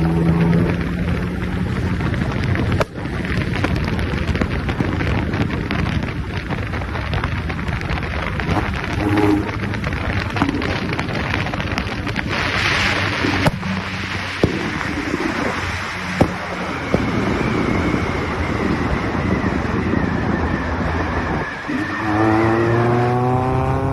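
Exhaust of an ND Mazda MX-5 Miata's four-cylinder engine running hard, with a few sharp exhaust pops among the noise. Near the end the engine revs up in a fast rising climb.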